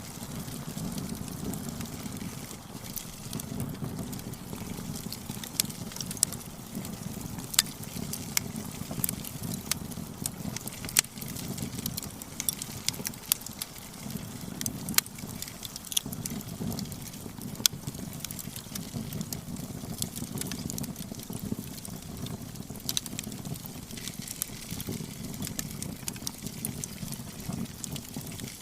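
Burning firewood crackling: a steady low rumble of flame with frequent sharp snaps and pops, a few louder than the rest.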